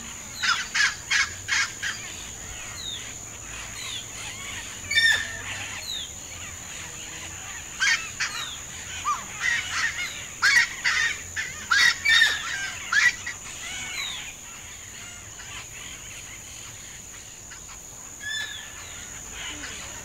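Wetland birds calling in loud, repeated runs: a group about half a second in, another at about five seconds, a dense run from about eight to thirteen seconds, and a last short call near the end. A steady high-pitched insect buzz runs beneath them.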